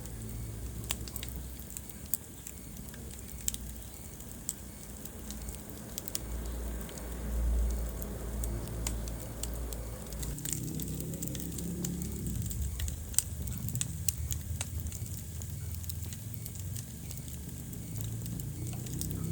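Wood fire burning in a fireplace, crackling with scattered sharp pops over the low rumble of the flames.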